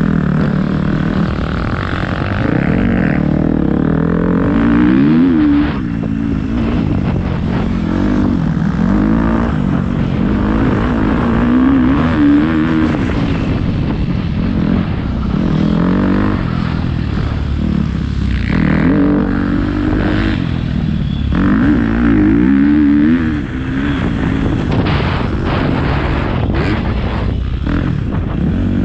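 Motocross dirt bike engine revving hard over and over as it is ridden round the track, its pitch climbing and dropping again and again as the throttle opens and closes.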